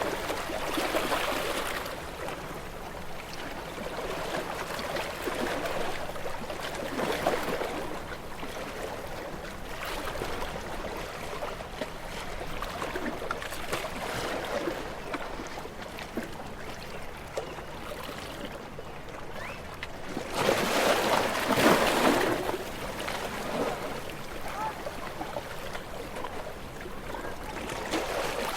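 Small, gentle sea waves washing onto a shore, the wash swelling and fading every few seconds, with the biggest wave breaking about three-quarters of the way through.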